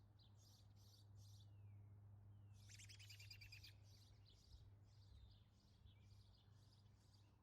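Faint wild birdsong: a run of short high chirps, with a denser, rapid trill about three seconds in, over a low steady hum.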